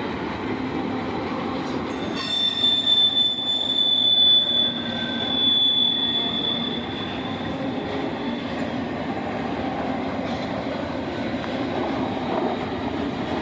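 Loaded freight train cars rolling past with a steady rumble of steel wheels on rail. A single high-pitched wheel squeal starts about two seconds in and fades out a few seconds later.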